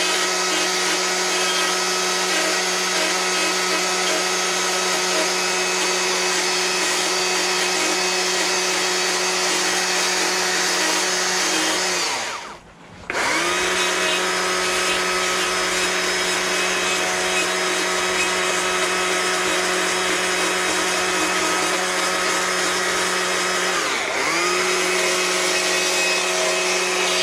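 Chainsaw running at high revs while the underside of the bar's nose scrapes and rounds off the edges of a wooden carving, a steady high whine. It drops out briefly about halfway, and its pitch dips once for a moment near the end.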